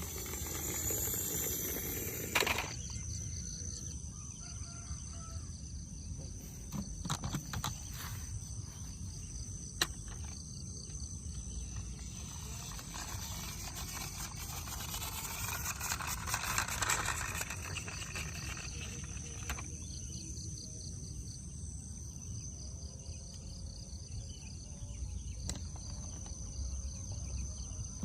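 Steady high-pitched insect chirring throughout, with scattered clicks and a stretch of rustling handling noise in the middle.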